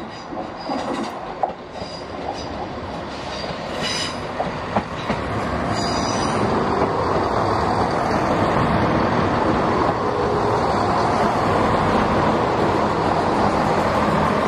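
Chiltern Railways Class 168 diesel multiple unit running into the platform. In the first few seconds there are sharp clicks from the wheels and a faint high wheel squeal, then a steady rumble of engines and wheels that grows louder as the carriages pass close by.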